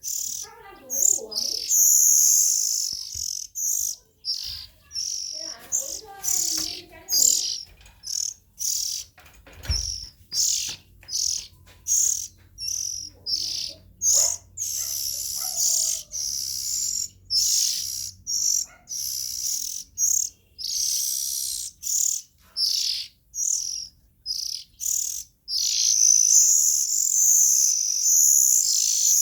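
Young Oriental magpie-robin calling: a long run of short, high chirps, about one or two a second, broken by longer, drawn-out calls about two seconds in and again near the end.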